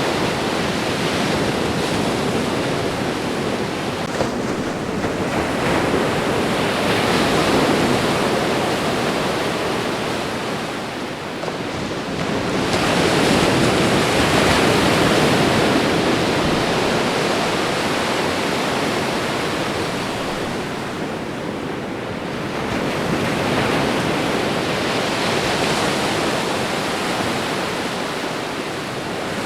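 Ocean waves breaking and washing onto a shore, the surf swelling and easing in long surges about every ten seconds.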